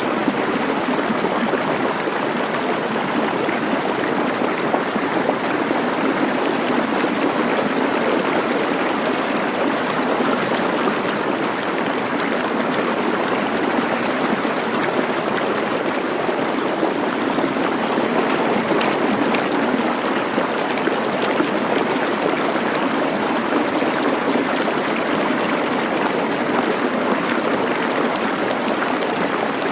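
Running water of a stream or small river, a steady rush.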